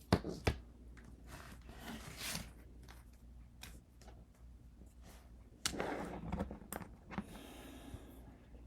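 Hand work on stained glass being wrapped in copper foil tape: two sharp taps at the start, then soft rustling, and a patch of scraping and rubbing past the middle.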